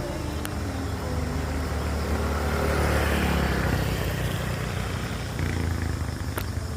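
A motor vehicle's engine and road noise rising to a peak about three seconds in and then easing off, as a vehicle passes by.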